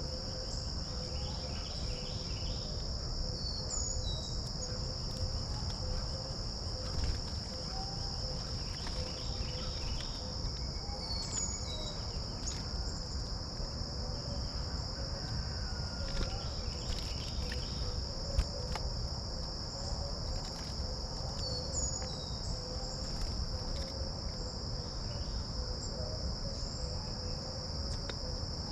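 Steady, continuous high-pitched chorus of insects, with a few short bird chirps now and then.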